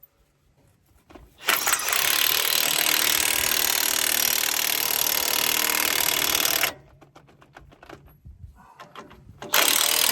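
A power tool runs in two bursts, each starting and stopping suddenly: one of about five seconds, then after a pause a shorter one near the end.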